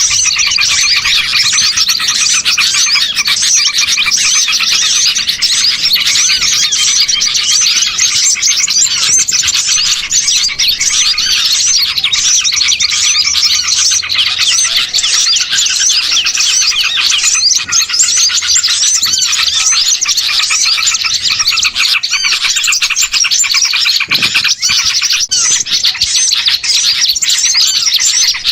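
Dense, unbroken chorus of many small songbirds chirping and twittering over one another: a layered bird-luring (pikat) call recording for small birds.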